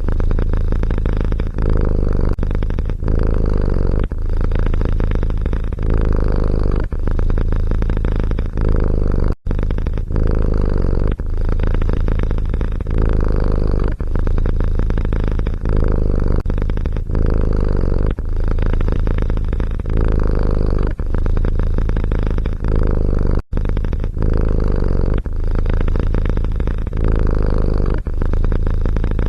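A cat purring loudly and close up: a steady low rumble that pulses with each breath, about once a second. It cuts out for an instant twice.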